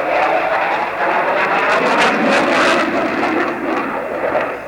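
Airplane engines running loud as an aircraft passes, a dense rushing noise that swells through the middle and eases off near the end.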